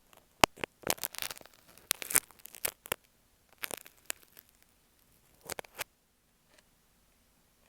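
Crackly scratching and clicking right on an earphone microphone, from sewing pins rubbed against it. The sound is dense for about three seconds, thins to a few scattered clicks, and stops about six seconds in.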